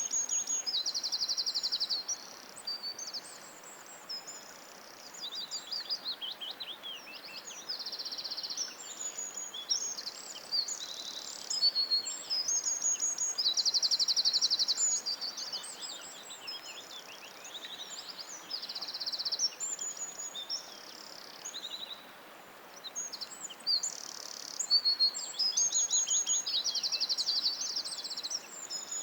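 Songbirds singing, high phrases with fast trills about a second long repeating throughout, over a steady faint hiss.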